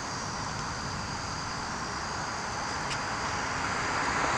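Open-air ambience: a steady high insect chirring over a steady rushing noise, with a vehicle's approach growing louder near the end.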